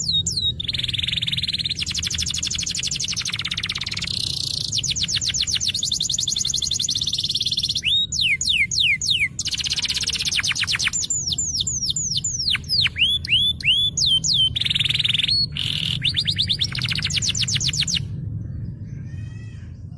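Domestic canary singing a long, varied song of fast trills of repeated notes and downward-slurred whistles. It stops about two seconds before the end.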